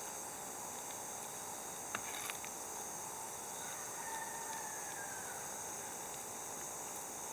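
Steady high-pitched insect chorus, with a single sharp click about two seconds in.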